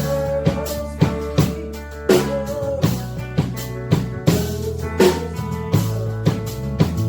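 A live band playing during a sound check: a drum kit keeps a steady beat with bass drum and snare hits, under bass guitar and other sustained pitched instruments.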